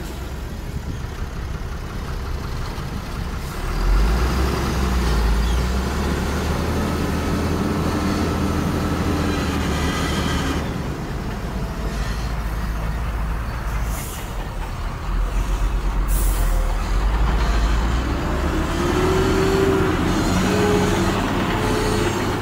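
Heavy diesel earthmoving machinery running, the engine note rising and falling as it works, with two short hisses of air a little past the middle.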